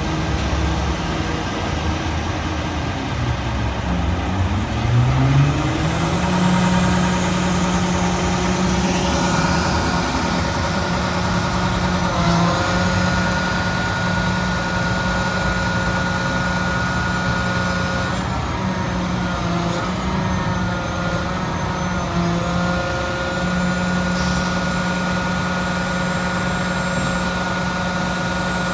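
Garbage truck engine running, rising in pitch about five seconds in and then holding steady at a raised speed, with a steady whine over it and brief dips in pitch now and then.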